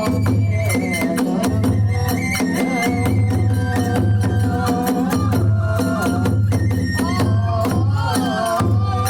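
Kagura hayashi ensemble playing: drums and hand cymbals striking a fast, steady rhythm under a wavering flute melody.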